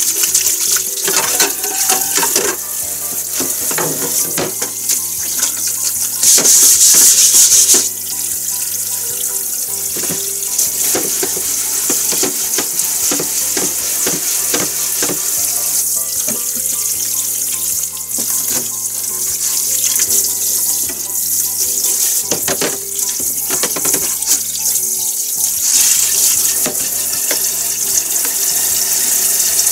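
Kitchen tap running into a stainless-steel sink while a cutting board and knife are rinsed clean, with knocks and clatters of the board and utensils against the sink. The water runs louder for a couple of seconds about six seconds in.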